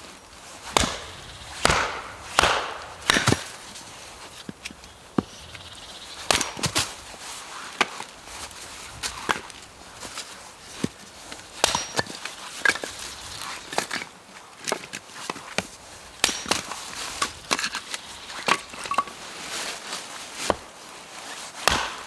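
Chopping with a blade on wood: dozens of sharp knocks at an uneven pace, some struck harder than others.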